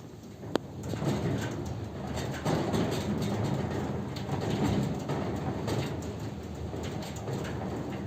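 Wind gusting through gaps in the apartment's window and balcony frames: a rushing drone that swells and eases, with one sharp click about half a second in.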